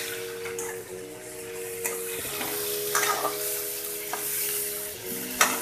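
Chopped onions and tomatoes sizzling in hot oil in a steel pan while a metal spatula stirs them, scraping against the pan about once a second.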